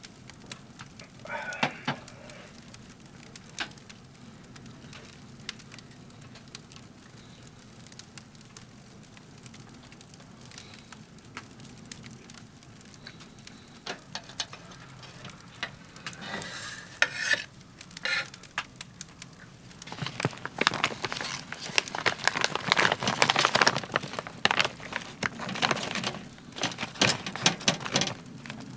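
Firewood crackling and popping in a wood stove, with sharp scattered pops. From about two-thirds of the way in, a louder stretch of dense crackling and rustling takes over.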